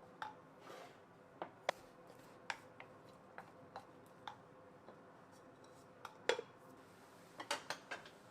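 Dishes and kitchen utensils clinking and tapping: about a dozen short, scattered knocks, the loudest about six seconds in, with a cluster near the end. A faint steady hum runs underneath.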